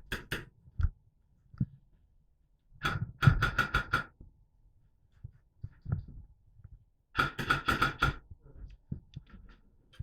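Airsoft rifle firing two short full-auto bursts, about three seconds in and again near the end, each a rapid even string of sharp cracks. Single clicks and knocks of gear and movement come between.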